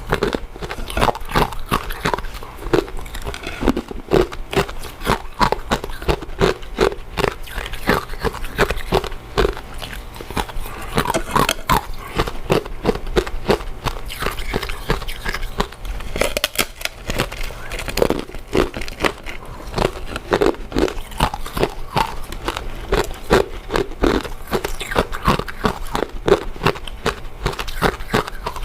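Close-up eating sounds of a person chewing soft, chewy glutinous rice cakes and mochi: continuous wet mouth clicks and smacking.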